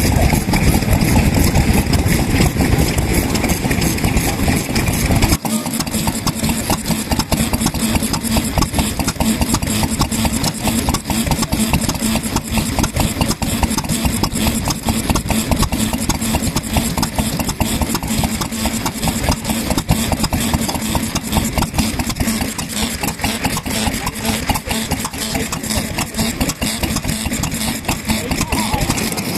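Vintage stationary petroleum engine running steadily with a regular firing beat; about five seconds in the sound changes abruptly to another engine running.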